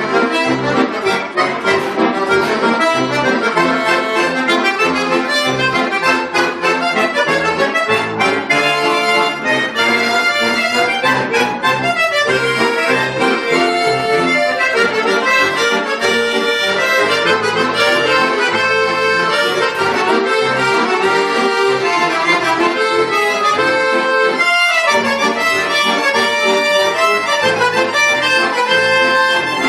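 Bayan, a Russian button accordion, playing a fast, busy piece of music, with a brief break in the notes about 25 seconds in.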